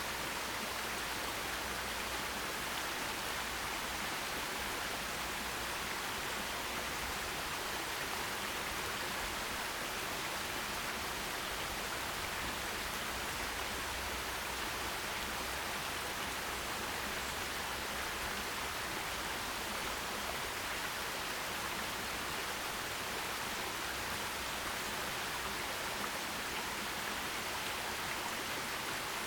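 Forest stream running over rocks: a steady, even rush of water.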